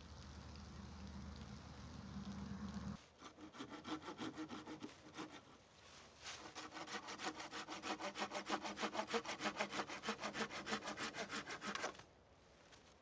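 Hand saw cutting through a wooden branch with fast, even back-and-forth strokes, in two bouts separated by a short pause. A low steady rumble runs before the sawing and cuts off about three seconds in.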